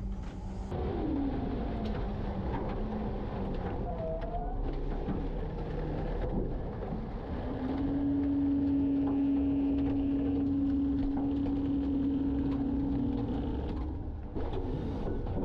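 Garbage truck's engine and hydraulic packer running, with a tone that falls in pitch about a second in. A steady, louder whine comes in about seven seconds in and holds for about six seconds before dropping away.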